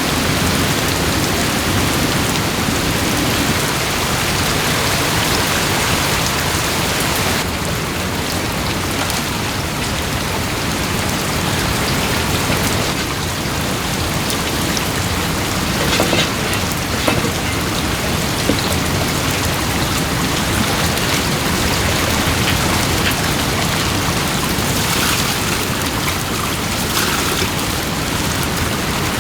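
Steady rain falling, with a few louder drop hits standing out now and then.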